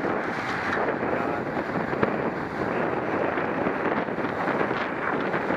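Wind rushing steadily over the microphone of a camera on a racing bicycle under way, with a couple of faint ticks.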